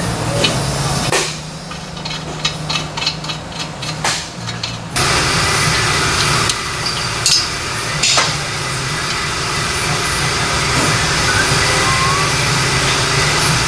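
A run of light metallic taps. Then, about five seconds in, a steady crackling hiss starts abruptly and holds for about nine seconds before cutting off near the end: a MIG welder laying a bead on steel exhaust pipe.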